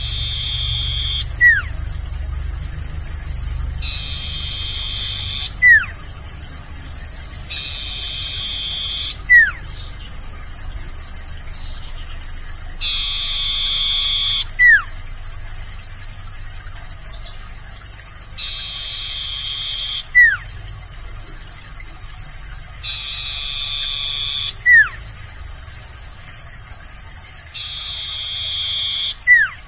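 A sirtu (cipoh) songbird singing the same phrase over and over, about every four and a half seconds: a buzzy, trilled note about a second and a half long, ending in a short, loud falling whistle. It repeats seven times, with a faint low hum underneath.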